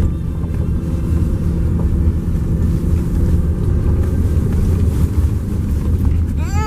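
Steady low rumble of a vehicle's engine and road noise, heard while driving.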